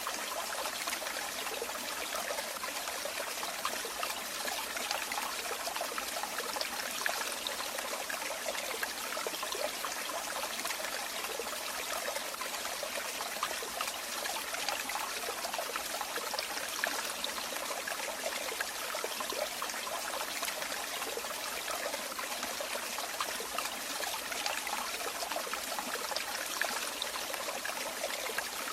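Running water trickling and splashing steadily, a dense even babble of small splashes, with little low rumble.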